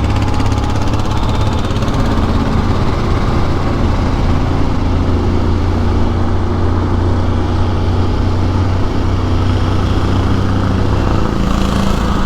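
Motorcycle engine running steadily under way, with road and wind noise on the microphone.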